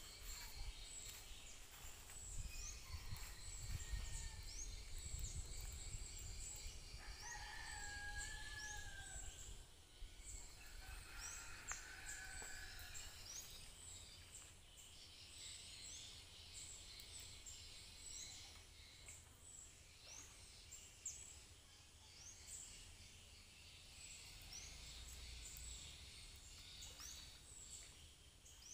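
Faint outdoor bird calls: one drawn-out call about seven seconds in and a shorter one a few seconds later, over steady high-pitched chirping, with a low rumble during the first third.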